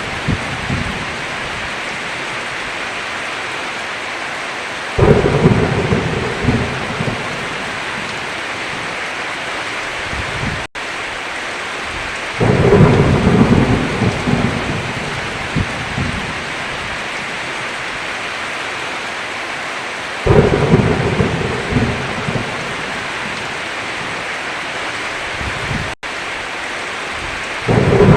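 Heavy rain falling steadily, with thunder rumbling in suddenly four times, about every seven to eight seconds, each rumble loudest at its start and fading over a few seconds. The sound cuts out for an instant twice.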